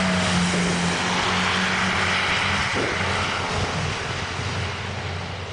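A large vehicle engine running steadily with a low hum, under a loud rushing noise. It fades off near the end.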